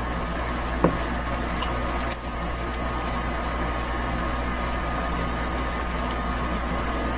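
Steady background hum with a faint constant high tone, broken by a couple of light handling clicks about one and two seconds in.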